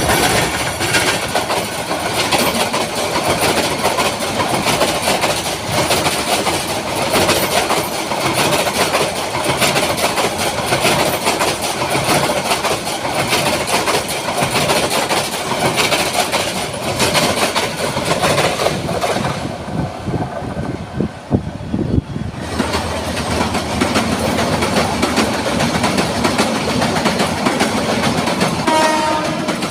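A train running along the track with a steady rumble and clickety-clack. About two-thirds of the way through, the high hiss drops away for a few seconds and then comes back.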